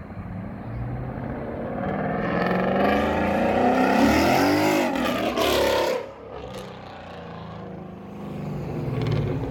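A car engine revving hard, its pitch climbing for several seconds before dropping off abruptly about six seconds in. The revs build again briefly near the end.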